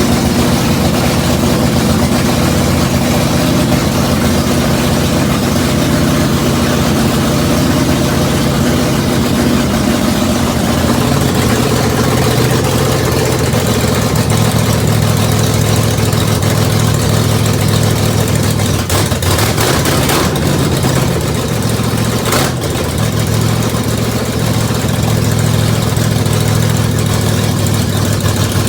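Freshly rebuilt Oldsmobile 455 big-block V8 running steadily on its first start-up, breaking in its new camshaft. Its note shifts lower about halfway through, and there are a couple of brief knocks in the second half.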